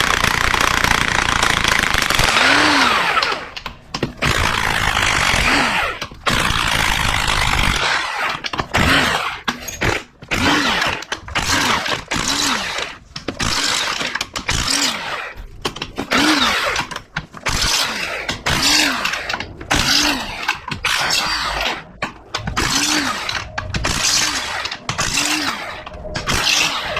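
Power tool spinning out 12 mm bolts from an automatic transmission. It runs continuously for the first few seconds, then in short trigger bursts about once a second, each with a motor note that rises and falls.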